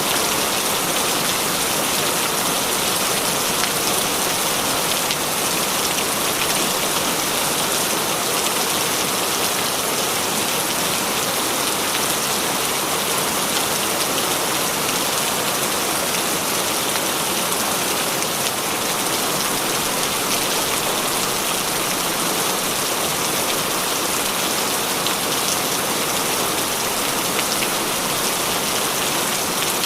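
Heavy rain falling steadily, a dense even hiss of many drops hitting a surface.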